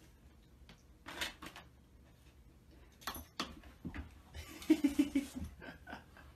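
A pet door's flap knocking and clacking as a dog pushes through it, with a few separate knocks, and a short run of quick pulsed vocal sounds about five seconds in.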